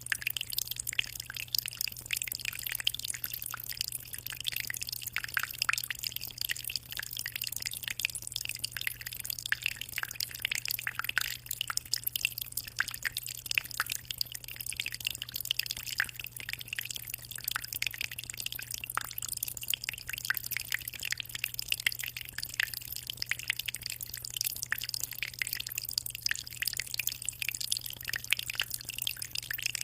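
Aquarium water trickling and splashing, a dense, irregular patter of small drips at the surface, over a steady low hum.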